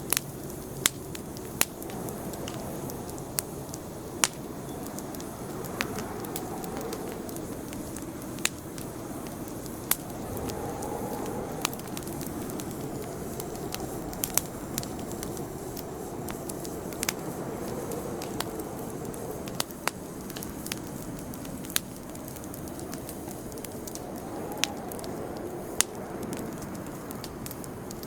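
Campfire crackling: sharp, irregular pops and snaps from the burning wood over a steady low rush of flames.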